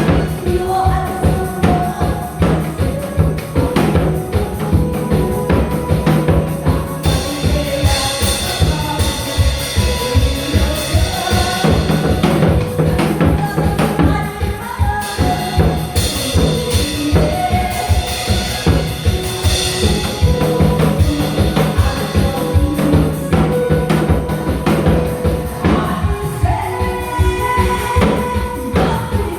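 Janggu (Korean hourglass drum) medley played with a fast, steady drumbeat over an upbeat recorded backing track with a melody line.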